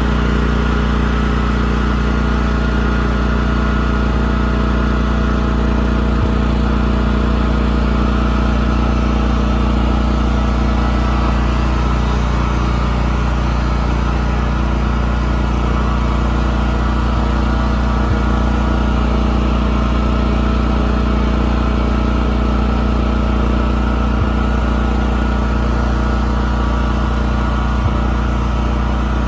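Engine of a radio-controlled model boat running steadily at a constant speed, with an even hum.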